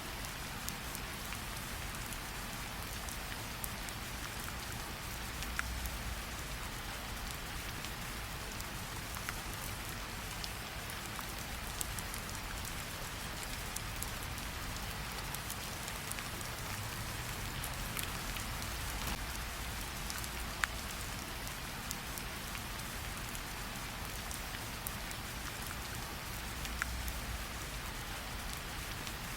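Steady rain falling with a campfire crackling: an even hiss of rain with a low rumble beneath, broken by scattered sharp single pops.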